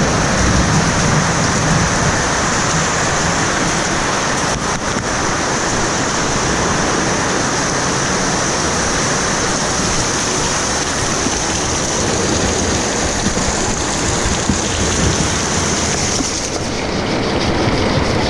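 Heavy rain falling steadily in a loud, even downpour. A thin high hiss over it cuts off about sixteen seconds in.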